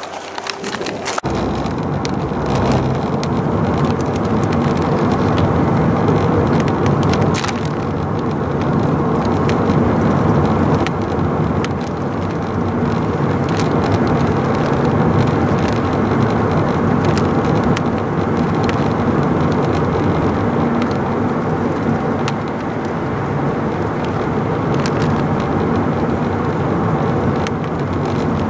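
Heavy vehicle engine and road noise running steadily, coming in abruptly about a second in.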